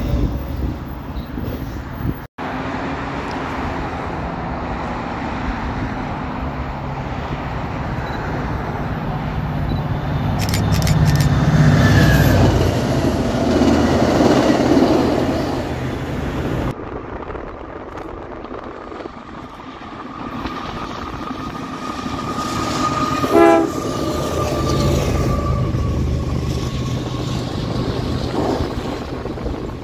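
A VIA Rail passenger train passes at speed with steady rumble and rail noise, loudest as it goes by. After a sudden change about halfway through, a CPKC double-stack container freight train rolls past with wheels running over the rails, and a brief horn toot sounds about three-quarters of the way in.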